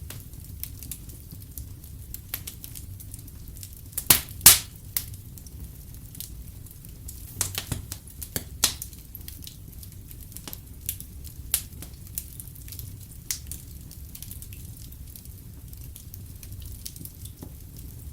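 Fireplace fire crackling over a steady low rumble, with scattered sharp pops; the loudest, a quick pair, come about four seconds in.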